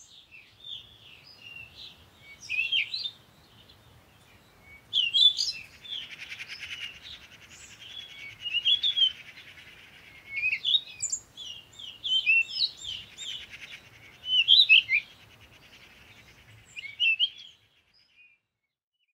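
Birds chirping and singing: many short, quick chirps and warbled phrases overlapping, stopping shortly before the end.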